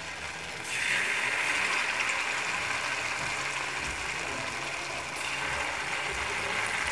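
Rice-flour-battered soya-chunk pakoras sizzling in hot oil in a kadhai. The sizzle grows louder about a second in as another battered piece goes into the oil, and again a little near the end as a third is added.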